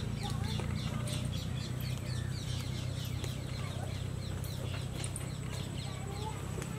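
Small birds chirping busily, many short, quick falling chirps several times a second, over a steady low hum.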